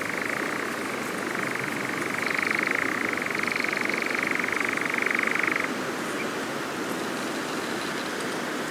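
European nightjar churring: a fast, continuous trill that wavers slightly in pitch and stops abruptly about two-thirds of the way through, over a steady background hiss.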